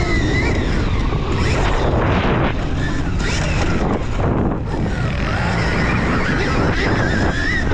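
Stark Varg electric dirt bike's motor whining, its pitch wavering up and down with the throttle, under heavy wind buffeting on the microphone.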